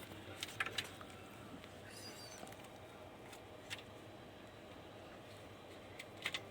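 Faint room tone with a low steady hum and a few scattered light clicks.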